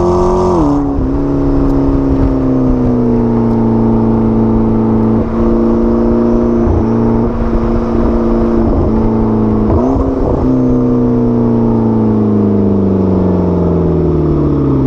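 McLaren 12C's twin-turbo V8 running under light load, its pitch stepping down about a second in, then holding steady with a short rise around ten seconds. From about eleven seconds on, the engine note falls slowly as the revs drop.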